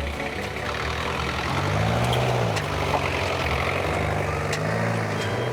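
An old truck's engine running as the truck comes slowly down a steep, rough track, its pitch rising and falling.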